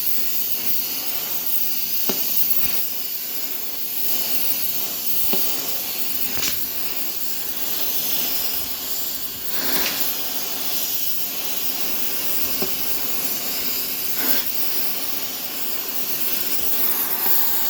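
Gas torch flame hissing steadily while heating the steel of a snowplow frame to red heat so it can be bent back straight, with a few faint knocks scattered through it. It cuts off suddenly at the very end.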